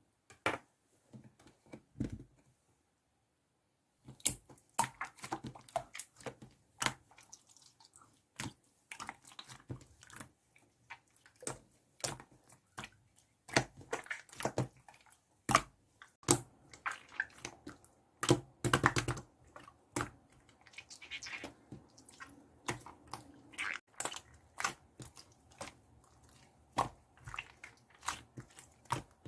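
Dense, irregular clicks and taps of small objects being handled close to the microphone, with a short silent gap near the start.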